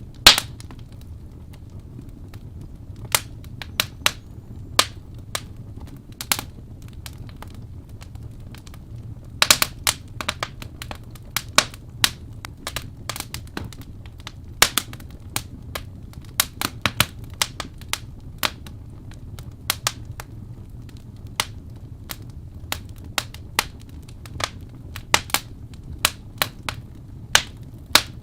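Wood fire burning in a fireplace, crackling: sharp, irregular pops and snaps over a steady low rumble of the flames. The pops come thickest around the middle and again near the end.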